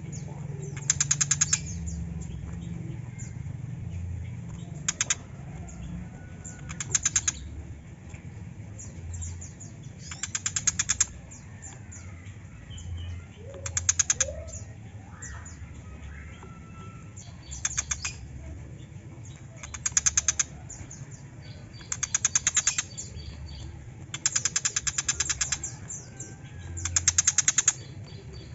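Tiger shrike giving harsh, rapid rattling chatters: about ten short bursts, each under a second long, repeated every two to three seconds, with faint chirps between them over a steady low hum.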